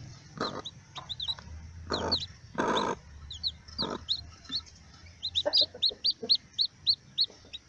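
A brood of chicks peeping in quick, high, downward-slurred notes, coming fastest in the second half. In the first half a mother hen clucks a few times.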